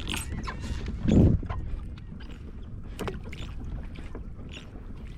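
Wind and water noise on a small fishing boat, with one loud dull thump about a second in and a few scattered clicks.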